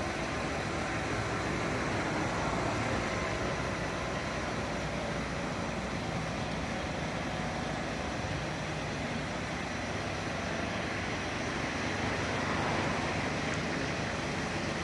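Steady motor vehicle and road traffic noise, with no siren.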